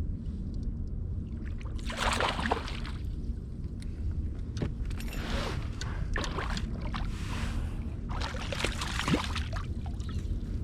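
Water splashing around a kayak in four short bursts, over a steady low rumble of wind and hull noise.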